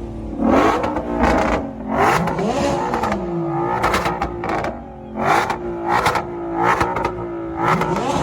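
A car engine revved over and over in quick blips, its pitch climbing and falling with each one, with short sharp cracks along with the revs.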